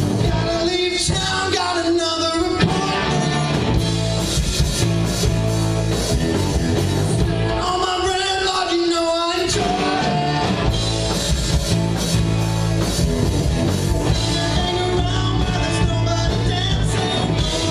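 Live rock band playing, electric guitar and drum kit with a singer's voice coming in twice.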